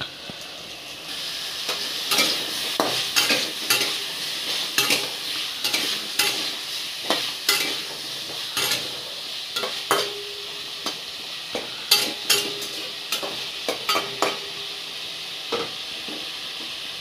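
Diced potatoes sizzling as they fry in hot oil in a kadai, with a spatula repeatedly scraping and knocking against the pan as they are stirred.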